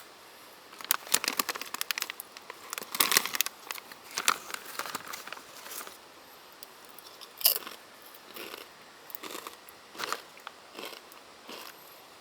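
Irregular crinkling, rustling and sharp clicks of things being handled close by, in short spells with brief pauses between them.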